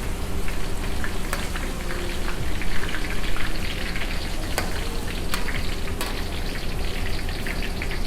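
Spinach deep-frying in hot oil at about 200 °C: a steady crackling sizzle, with a few sharp clicks and a steady low hum underneath.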